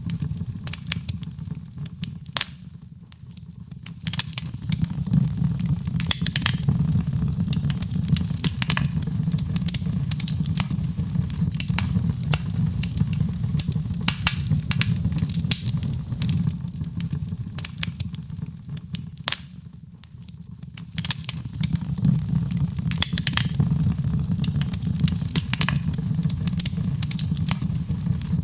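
Wood fire in a fireplace crackling, with frequent sharp pops and snaps over a steady low rumble of the flames. Twice the fire briefly dies down before picking up again.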